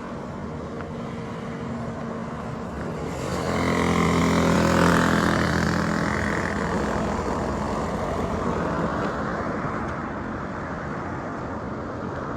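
A motor vehicle passing close on the road amid steady traffic noise; its engine grows louder from about three seconds in, peaks near five seconds, then slowly fades.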